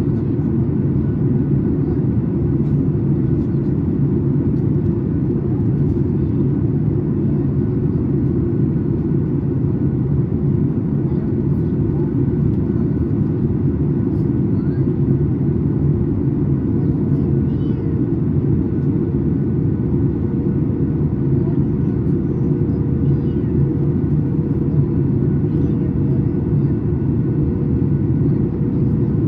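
Steady cabin noise inside a Boeing 737 MAX 8 airliner in flight: the deep, even rumble of its CFM LEAP-1B engines and the airflow past the fuselage. A faint steady hum joins about halfway through.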